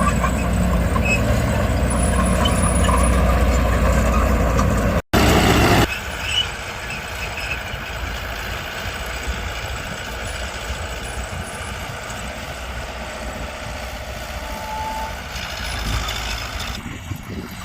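Heavy diesel earthmoving machinery running under load, a steady low engine sound. About five seconds in it cuts off abruptly, and a quieter, rougher machine sound follows.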